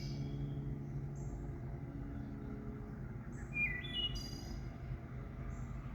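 Low, steady drone of approaching freight-train diesel locomotives, with a songbird giving a short burst of chirps about two thirds of the way through.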